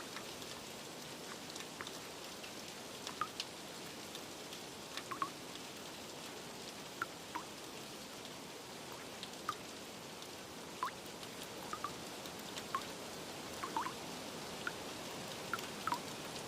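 Steady rain with scattered water drops plinking irregularly, about one or two a second.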